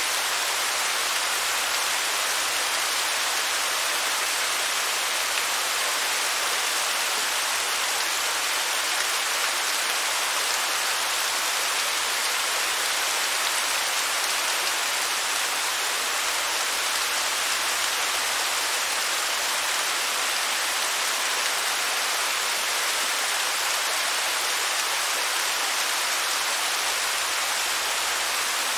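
Waterfall rushing steadily: an even, unbroken hiss of falling water with little deep rumble.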